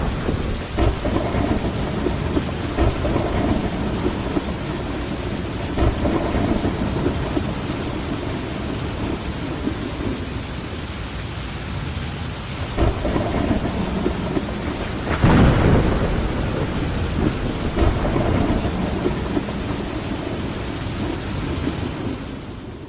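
Steady heavy rain with repeated rolls of thunder, the loudest about two thirds of the way through. The rain and thunder begin to fade out near the end.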